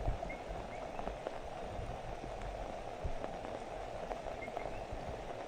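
Steady rain falling, with a few faint short high chirps and occasional low thumps.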